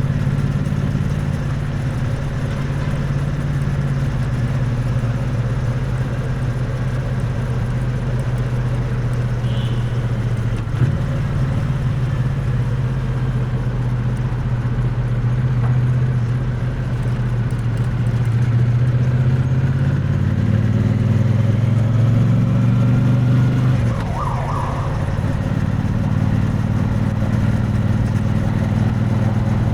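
Triumph Bonneville T100's parallel-twin engine and exhaust running under way, recorded close to the exhaust. The revs climb for several seconds about two-thirds of the way through, then fall suddenly, with a single sharp click about a third of the way in.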